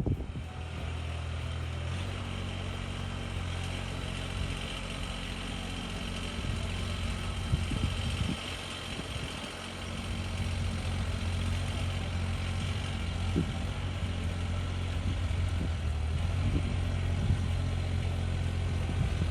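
An engine idling steadily, dipping briefly and then running a little louder from about ten seconds in.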